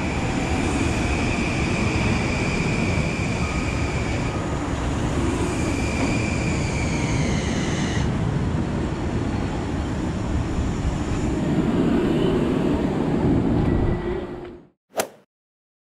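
Long Island Rail Road M9 electric multiple-unit train moving along a station platform: a steady rumble of wheels on rail under a high electric whine that shifts pitch about four and eight seconds in. The sound fades out shortly before the end, followed by one short click.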